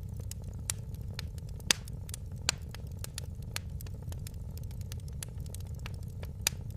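Wood fire in a fireplace crackling, with irregular sharp pops and snaps over a steady low rumble of burning, a few louder pops among them.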